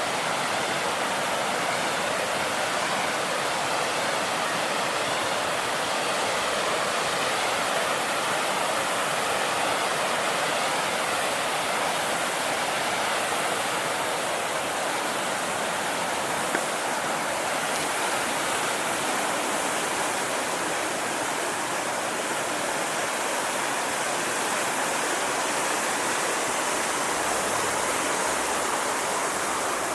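Rushing river water, a steady full sound, with one brief click about halfway through.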